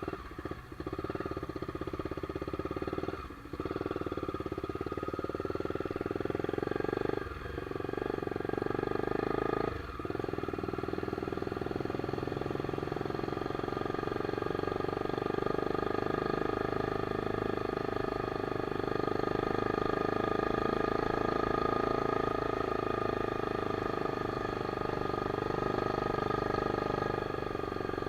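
Honda CBX 250 Twister single-cylinder motorcycle with an open straight-pipe exhaust running under way. Its sound drops briefly about 3, 7 and 10 seconds in, then stays steady.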